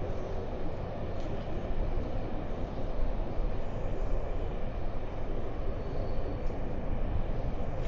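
Steady, unbroken low rumble of outdoor city background noise, the kind of sound passing traffic makes.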